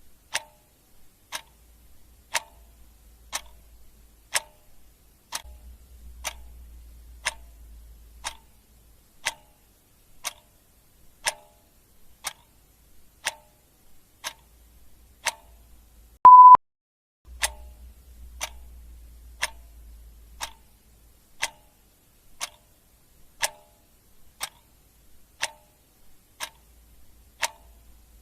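Clock ticking sound effect, one sharp tick about every second. About sixteen seconds in, a single short, loud electronic beep cuts in.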